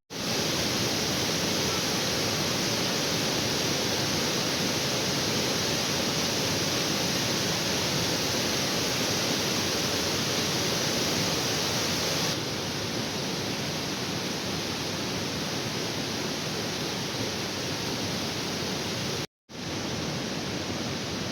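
Waterfall rushing, a steady roar of falling water. The level drops slightly a little past halfway, and the sound cuts out for a split second near the end.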